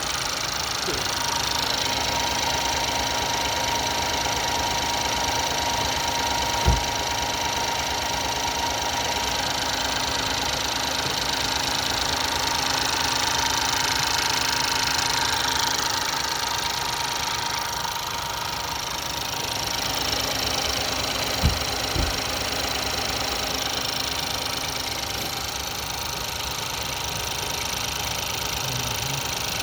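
Ford 1.0 EcoBoost turbocharged three-cylinder petrol engine idling steadily, with a thin steady whine that fades out about two-thirds of the way through. Three short sharp knocks stand out, one about a quarter of the way in and two close together later.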